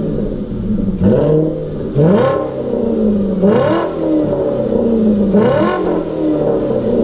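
Volkswagen Passat W8's 4.0-litre W8 eight-cylinder engine blipped four times through a Guerrilla valved exhaust with its bypass valve open. Each rev rises sharply and drops back to idle.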